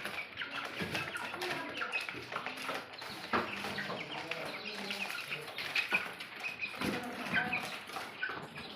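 A flock of young white broiler chickens, about twenty days old, cheeping and clucking continuously, mixed with scattered knocks and rustling.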